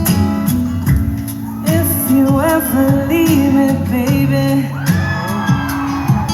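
A song played on strummed acoustic guitar, with a voice singing over it from about two seconds in.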